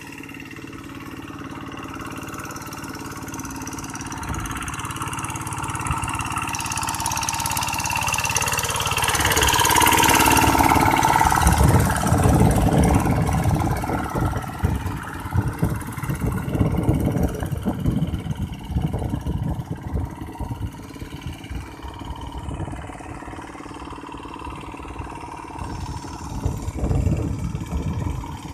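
Tractor engine running, growing steadily louder over the first ten seconds or so, then going on as an uneven low rumble that eases off toward the end.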